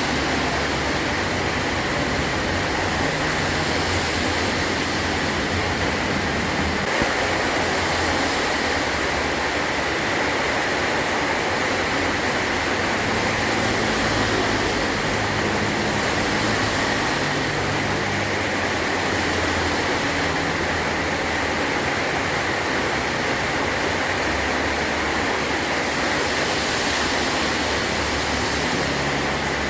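Heavy rain drumming steadily on a metal roof, a dense even hiss with no let-up.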